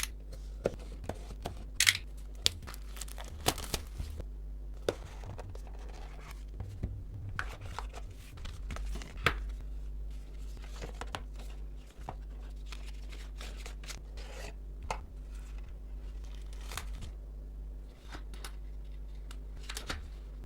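Smartwatch packaging being opened and handled: tearing and crinkling of wrapping with many scattered sharp clicks and taps, over a steady low hum.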